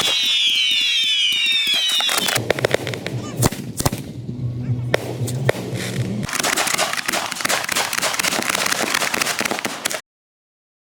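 Aerial fireworks going off: a cluster of falling whistles, then a run of separate sharp bangs, then a dense crackling barrage from about six seconds in. The sound cuts off abruptly near the end.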